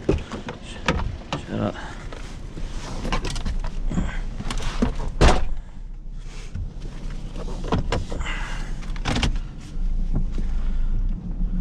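Clunks and knocks at a car, the loudest about five seconds in, with a low steady engine rumble underneath that grows fuller near the end.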